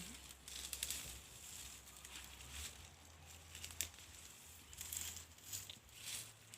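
Dry maize leaves and husks rustling and crinkling, with scattered snaps, as maize cobs are picked by hand.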